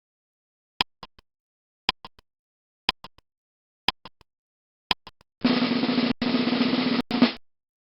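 Timer sound effect: five sharp clicks about a second apart, each followed by two lighter ones, then a drum roll of about two seconds that breaks briefly twice and cuts off suddenly.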